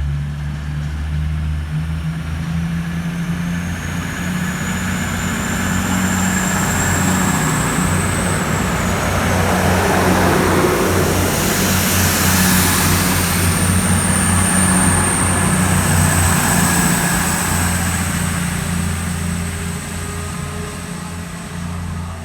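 Class 222 Meridian diesel multiple unit pulling out of the platform, its underfloor diesel engines running under power with a rising high whine. The sound builds as the train passes and fades towards the end.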